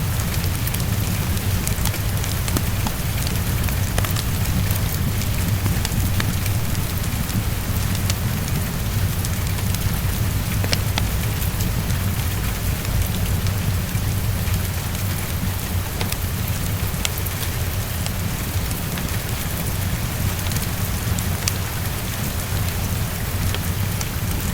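Heavy rain pattering steadily against a window, over a steady low rumble, with scattered sharp clicks of a fireplace crackling.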